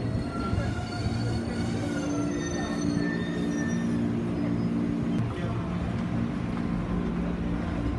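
JR 211-series electric train at a station platform, with high, thin squealing tones in the first three seconds or so as it comes to a stop, mixed with background music.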